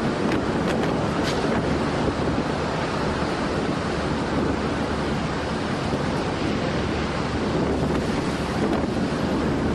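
Strong wind blowing steadily, a continuous rushing noise, with a few faint clicks in the first second or so.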